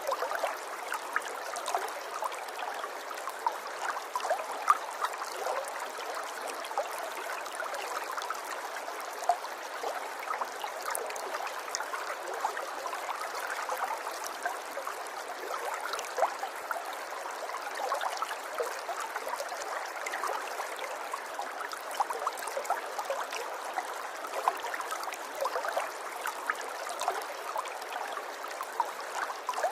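River water flowing over stones with a steady gurgle and many small splashes and droplet plinks.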